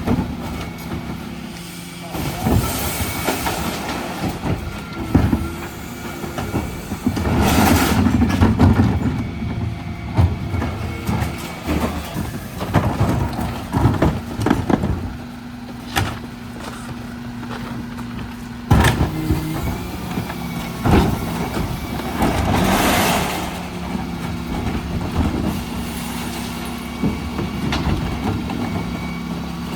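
Dennis Elite refuse lorry running steadily, with two bursts of hiss, about 8 and 23 seconds in, and several sharp bangs, the loudest near the middle.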